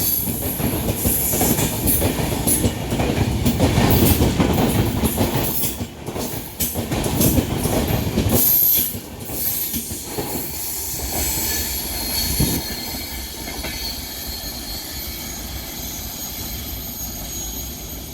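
Passing train on a curve: wheels clacking over rail joints, with high wheel squeal from the curve. It is loud for about the first nine seconds, then fades as the train moves away, the high squeal lingering.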